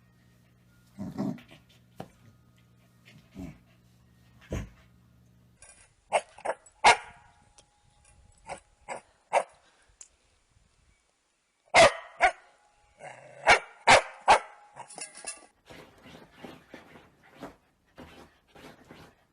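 Corgi puppies barking and yipping in short, sharp barks, in two bursts: one about six seconds in and another about twelve seconds in.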